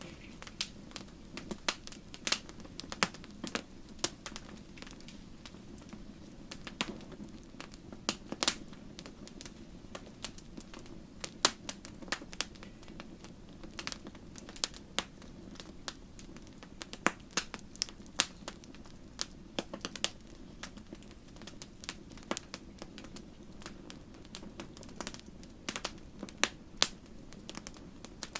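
Wood campfire burning, with irregular sharp crackles and pops several times a second over a steady low rush of the flames.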